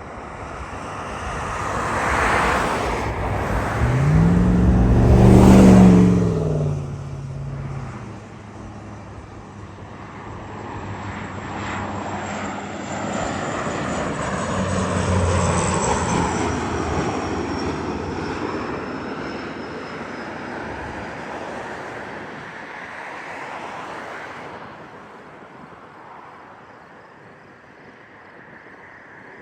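WestJet Dash 8 Q400 turboprop passing low overhead on approach, its Pratt & Whitney PW150A engines and six-bladed propellers making a loud hum that peaks and drops in pitch as it goes by about five seconds in. The engine noise swells again from about twelve seconds as the aircraft lands, with a high whine sliding slowly down, then fades away.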